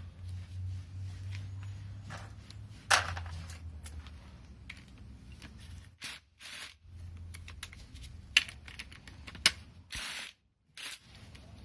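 Hand tools working nuts off an engine: scattered metal clicks and clinks of a ratchet and socket, with a few sharper knocks, the loudest about three seconds in, over a low steady hum. The sound drops out briefly twice in the second half.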